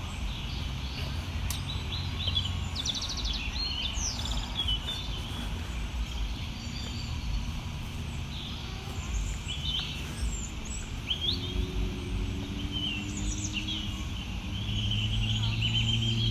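Several birds chirping and calling in short, scattered notes over a steady low rumble of outdoor background noise. Near the end, a low droning hum comes in and the overall level rises.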